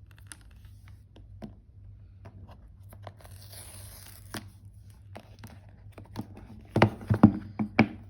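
Paper packaging on an iPhone box being torn open and handled, with scattered small clicks. Near the end comes a quick run of louder knocks as the box is handled.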